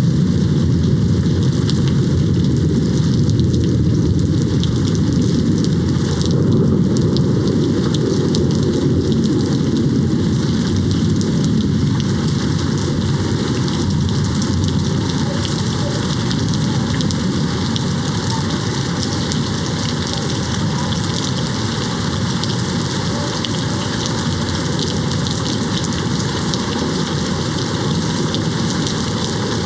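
Steady rain hitting a window, even and unbroken, with most of its weight in a deep low rush and no single thunderclap.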